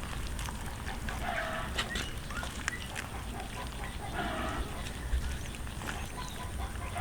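Short animal calls, each about half a second long, recurring every two to three seconds, with a few small clicks between them.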